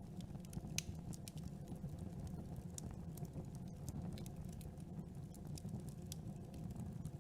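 Campfire burning: irregular sharp crackles and pops from the wood over a low, steady rumble of flames, with one louder pop just under a second in.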